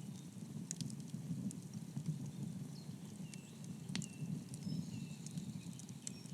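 Wood fire burning: a steady low rumble of flame with scattered sharp crackles and pops.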